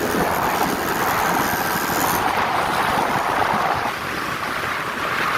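Steady wind and road rush on the microphone of a moving motorcycle, with no distinct engine note standing out; it eases slightly about four seconds in.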